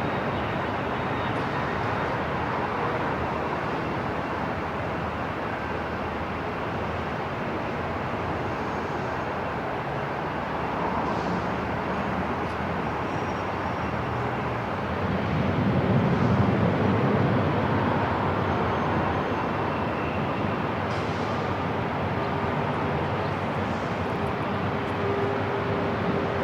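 Airport terminal ambience: a steady hum and hiss of background noise, with a low rumble swelling about halfway through and then easing back.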